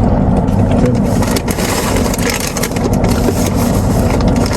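Car engine idling, heard from inside the cabin as a steady low rumble, with scattered short clicks over it.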